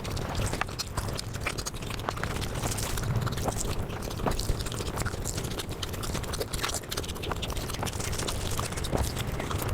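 Eating sounds sped up several times over: a dense, rapid run of chewing, lip-smacking and mouth clicks.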